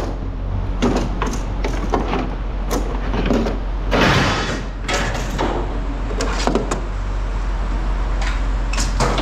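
Pieces of scrap metal being thrown and clanking onto a pile: a string of sharp knocks, with a longer scraping rattle about four seconds in, over a steady low hum.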